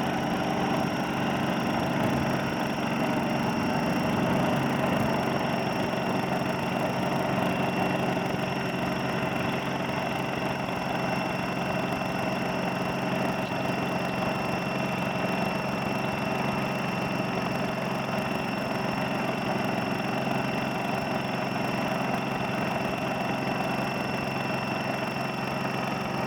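Oilfield equipment engine running steadily without pause, a constant low engine drone with a steady high-pitched whine above it: the unmuffled baseline noise measured before a Coal Train muffler is fitted.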